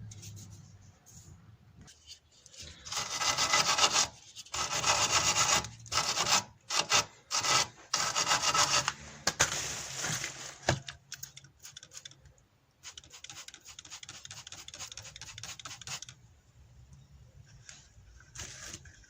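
A hand brush scrubbing back and forth over the ball joint and steering knuckle to clean off rust. It comes in several bouts of rapid scraping strokes, loudest in the first half, with a quieter bout of scrubbing near the end.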